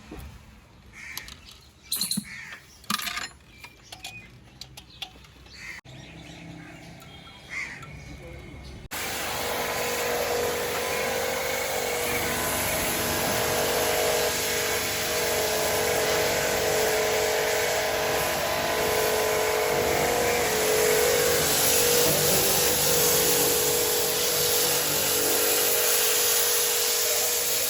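Birds chirping and crows calling amid a few clicks. About nine seconds in, a loud, steady machine noise with a hum begins abruptly and runs on.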